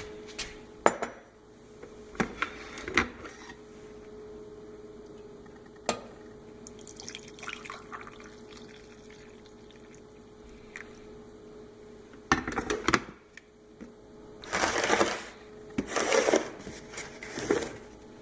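Coffee maker at work: a steady hum with a few clicks and knocks, then from about twelve seconds in, several separate bursts of gurgling and hissing liquid.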